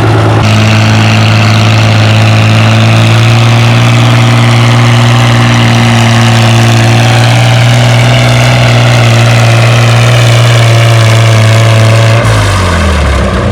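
Farmall 460 tractor engine running hard at a steady high speed while pulling the weight-transfer sled, its pitch sagging slightly as the load builds. Near the end it drops off sharply as the tractor is stopped by the sled.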